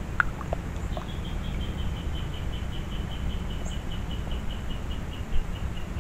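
A bird calling a long series of short, evenly spaced notes, about five a second, slowly falling in pitch, beginning about a second in, over a steady low background rumble.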